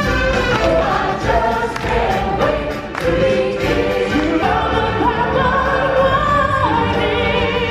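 Live stage show music: a choir singing over a loud, steady band with drums, with a wavering high voice near the end.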